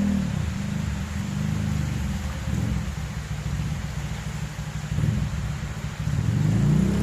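A motor vehicle engine running, its pitch rising and falling at the start and again near the end, over a steady hiss.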